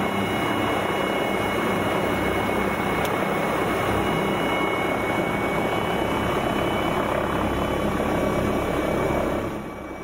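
Helicopter in flight: steady rotor and engine noise that fades down near the end.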